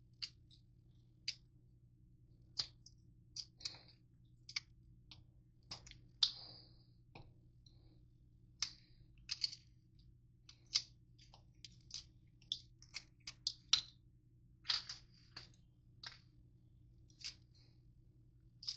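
Crunchy granola bars being crushed in a bowl: irregular short, sharp crunches and clicks, about one or two a second.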